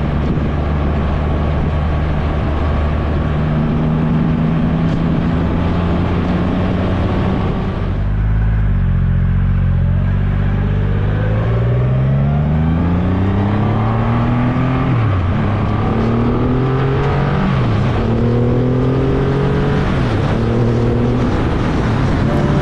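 Triumph Rocket 3 GT's inline three-cylinder engine under way. It holds a steady pitch, eases off about eight seconds in, then pulls hard through the gears, the pitch climbing and dropping back at each of several upshifts, over a rush of wind.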